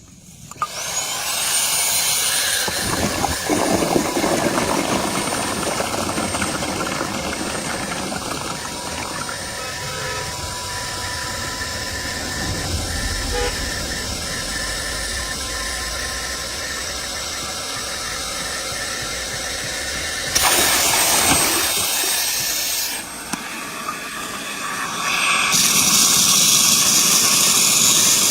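Cordless handheld vacuum cleaner with a 65 W motor running: a steady rush of air with a thin high motor whine. The airflow changes as it works, with louder, hissier stretches near the end.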